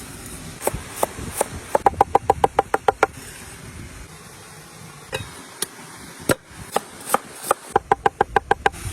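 Sharp knocks or strikes, first singly and then in two quick, even runs of about ten blows each, one about two seconds in and one near the end, each blow with a short ring.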